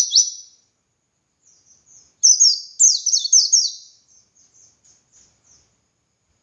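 White-eye (pleci) singing in fast runs of high, downward-sliding chirps: one run ends just after the start, a second loud run follows about two seconds in, then a few soft short notes trail off.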